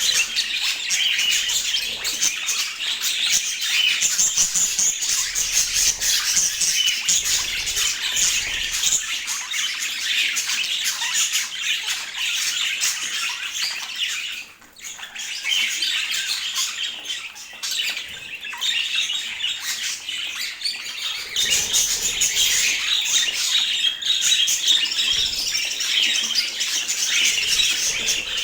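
Pet budgerigars chattering and warbling continuously, with squawks and chirps mixed in; the chatter drops off briefly about halfway through.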